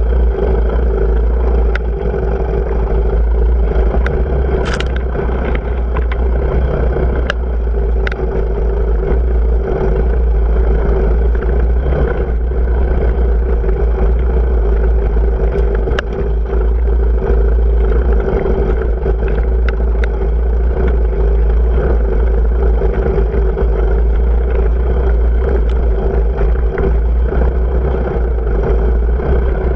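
Off-road motorcycle engine running steadily under load while riding a trail, heard through an on-board camera with a heavy low rumble; a few sharp clicks stand out over the engine, about two, five, seven, eight, sixteen and twenty seconds in.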